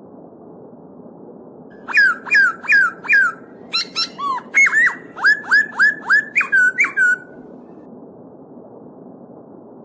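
A songbird sings a rapid run of about a dozen loud, clear whistled notes, each sliding down in pitch, starting about two seconds in and stopping a little past the middle, over the steady rush of a flowing stream.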